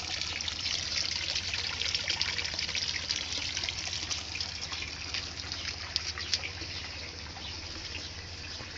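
Garden pond water trickling and splashing steadily, with a faint low hum underneath.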